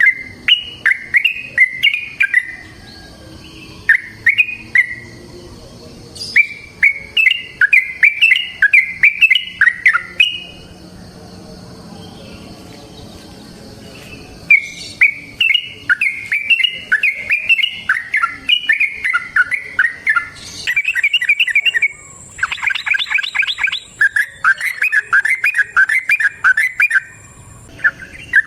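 Yellow-vented bulbul singing in long runs of rapid, repeated chirping notes, pausing for a few seconds near the middle before starting again.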